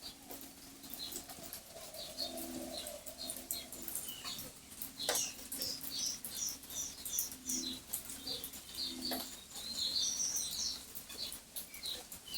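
Birds calling: a low repeated cooing note under many short, high chirps, with a few sharp clicks.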